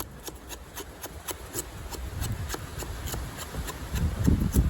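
Edge of a 1075 carbon-steel kukri blade shaving hair during a sharpness test: faint rubbing and scraping. There is a low handling rumble about two seconds in and a louder one near the end.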